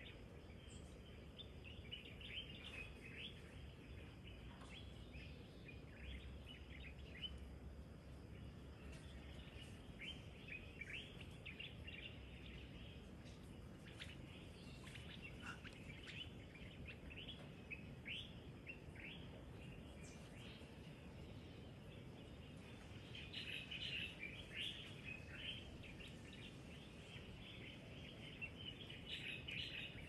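Birds chirping and calling outdoors: many short, high chirps scattered throughout, busiest about two-thirds of the way through and again near the end, over a faint low hum.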